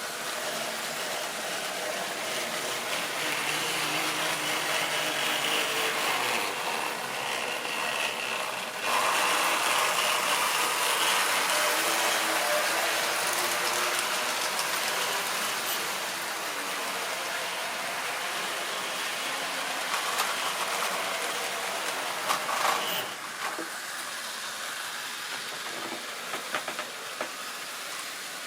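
Model railway train running along the track: the locomotive's small electric motor whirring and the wheels rattling, with scattered clicks. It gets louder about nine seconds in and drops back about twenty-three seconds in.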